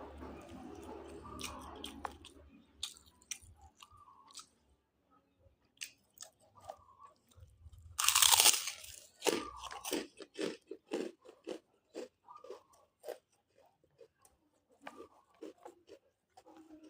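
A person chewing and crunching food close to the microphone. A loud crunchy bite comes about eight seconds in, followed by a few seconds of quick, regular chewing.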